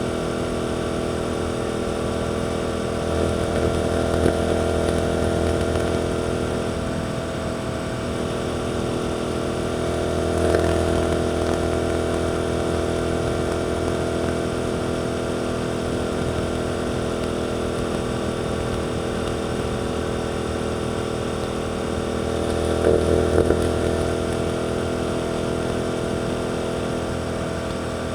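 Suzuki GSX-8S parallel-twin engine running through an Arrows aftermarket exhaust, holding a steady engine speed, with a few brief swells in level.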